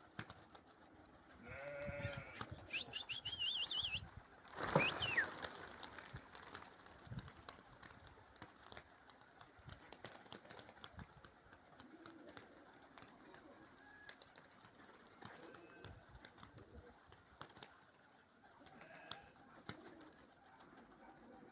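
Baku pigeons cooing softly. Near the start a few louder sounds pass, the loudest a short falling whistle-like sweep about five seconds in.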